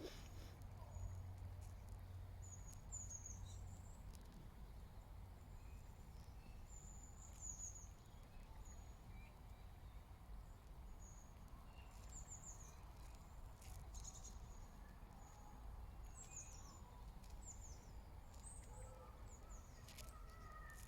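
Faint small-bird chirps: short, very high notes that slide downward, repeated every second or two, over a steady low background rumble.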